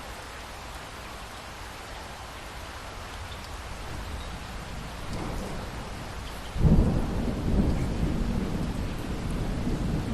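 Steady rain with thunder: a low rumble builds, then a sudden loud thunderclap about two-thirds of the way in that rolls on as a heavy rumble.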